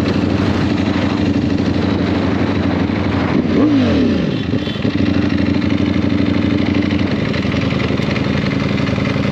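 Sport motorcycle engine running steadily. About three and a half seconds in, the revs jump briefly and then fall away, before settling back to a steady pitch.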